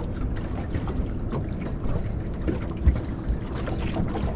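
Wind buffeting the microphone over a steady low rumble of water against a small boat's hull, with a few light knocks, the sharpest about three seconds in.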